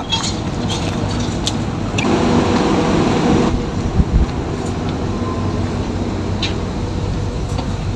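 Steady mechanical hum of a stationary passenger train standing at the platform. A few sharp knocks about four seconds in as feet go up the metal boarding steps into the carriage.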